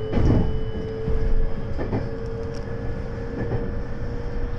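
JR West 223 series electric train running, heard from the cab of the leading motor car: a steady traction-motor whine rising slightly in pitch over the rumble of the wheels. Several thuds come as the wheels cross rail joints.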